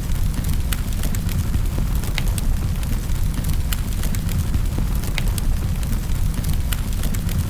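Wood fire crackling in a fireplace: a steady low rumble of burning with sharp pops and snaps scattered irregularly, a few each second.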